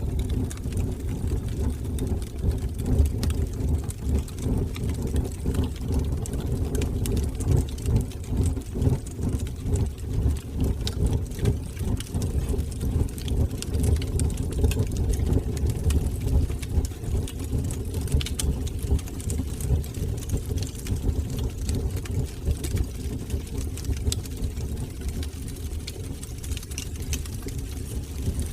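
Fire burning in a fireplace: a steady low rumble of flames with scattered small crackles and pops throughout.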